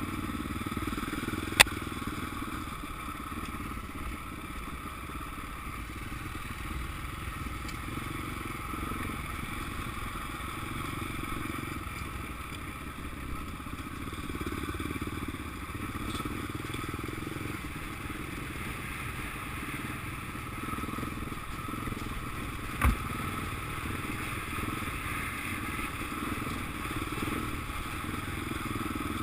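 Motocross motorcycle engines running steadily, with two sharp clicks, one near the start and one about three-quarters of the way through.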